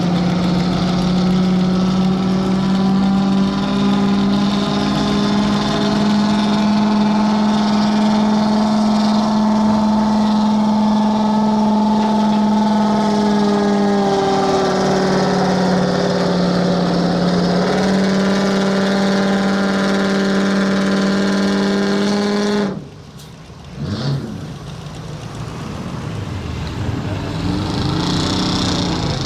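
Stock pickup truck engine held at high, steady revs under full load on a truck-pull run, its pitch dipping slightly a couple of times, then cut off suddenly about three-quarters of the way through. Afterwards a quieter truck engine revs up and down.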